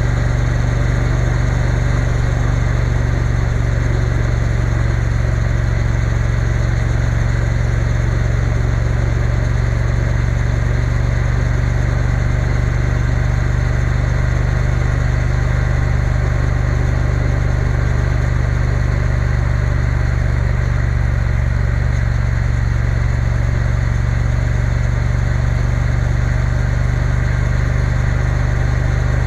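Triumph Bonneville T120 parallel-twin motorcycle engine running at steady revs while cruising, with a constant rush of road and wind noise.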